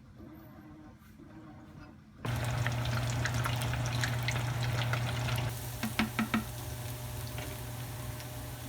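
Food frying in hot oil, sizzling and crackling, starting suddenly about two seconds in over a steady low hum, with a few short pops a little past the middle.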